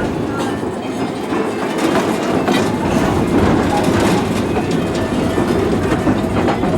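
Small park train's cars rolling along the track, a steady rumble with irregular clickety-clack of the wheels over rail joints, heard riding aboard.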